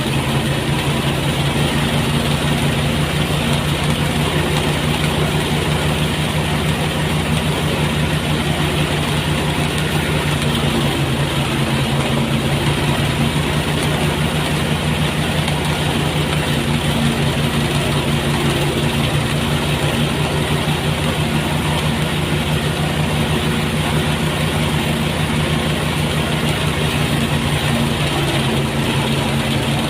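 Engine-driven rice thresher running steadily: a constant engine drone with a noisy rush over it, unchanging throughout.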